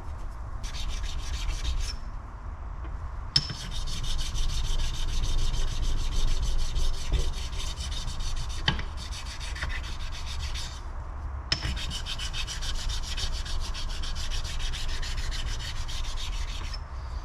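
A flat sharpening stone is rubbed back and forth across the cylinder-base deck of a Kawasaki KFX400's aluminium engine cases, a steady scraping that stops briefly twice. The stoning takes off the high spots to leave the gasket surface flat.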